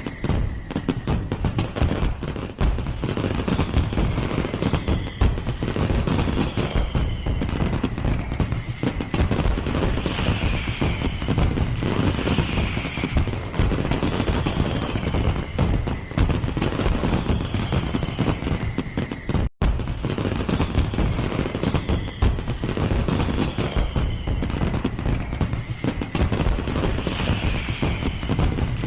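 A firework display barrage: rapid, overlapping bangs and crackles with no let-up, broken once by a split-second gap about two-thirds through.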